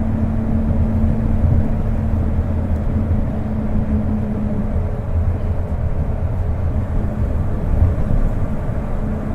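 Interior running sound of a Kobe New Transit 2020-series Port Liner, a rubber-tyred automated guideway train, cruising between stations: a steady low rumble of tyres and running gear with a steady hum that fades in the middle and comes back near the end.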